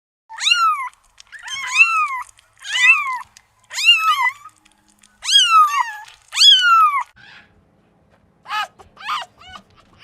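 A cat meowing: six high calls in a row, each rising then falling in pitch and lasting about half a second to a second. Near the end a quick run of short high peeps follows.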